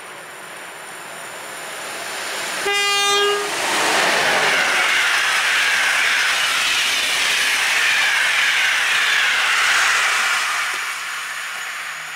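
EP09 electric locomotive gives one short horn blast about three seconds in, the RP1 'attention' signal. Then the Intercity train rushes past through snow at over 150 km/h, a loud steady rush with wheel clatter that fades near the end.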